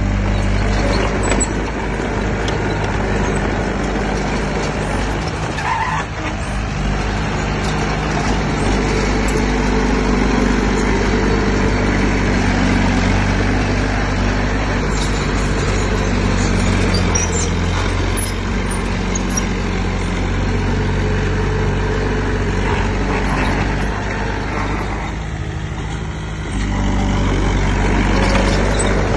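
Heavy diesel engine of earthmoving machinery running steadily under load, its pitch shifting a few times; it eases off briefly near the end and then picks up louder again.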